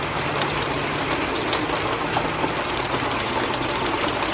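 Wind gusting and building during a thunderstorm, a steady rushing noise with light ticks in it, over a faint steady low hum.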